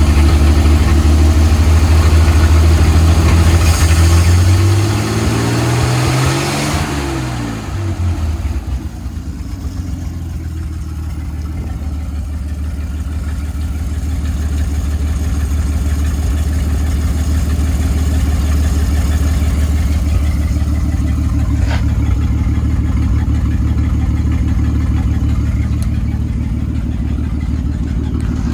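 1950 Dodge Meadowbrook's 230 cubic-inch flathead six running at raised revs, then dropping back over a few seconds to a steady idle.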